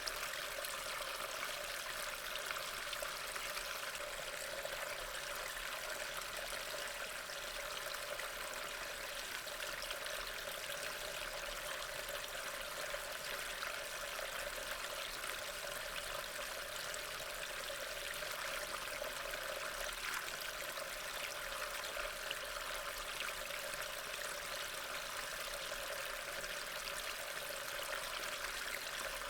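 Steady rain ambience: a continuous, even hiss of falling rain with fine patter.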